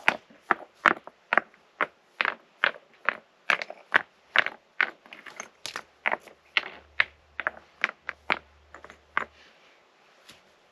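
Footsteps walking at a steady pace, about two steps a second, stopping about nine seconds in.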